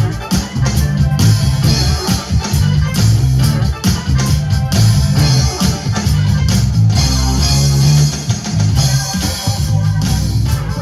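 Live rock band playing an instrumental passage: electric guitar, bass guitar and drum kit keeping a steady beat, with no singing.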